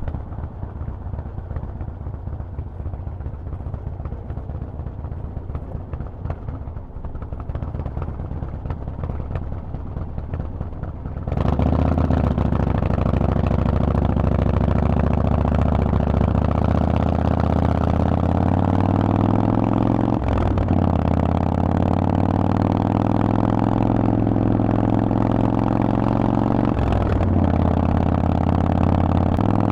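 Harley-Davidson Forty-Eight's air-cooled V-twin through a Vance & Hines exhaust, running at a low, rough burble for about the first ten seconds. Then the throttle opens suddenly and the engine pulls hard, rising in pitch. It drops briefly twice for upshifts and keeps accelerating.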